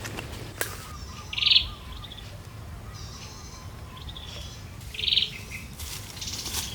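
A bird calling in the woods: two short, rapidly trilled calls about three and a half seconds apart, with fainter chirps between them, over a steady low background rumble.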